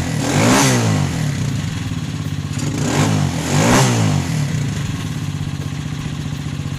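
Hawk 250 motorcycle engine idling through a new muffler with its baffle fitted, blipped twice: the revs rise and fall at the start and again about three seconds in.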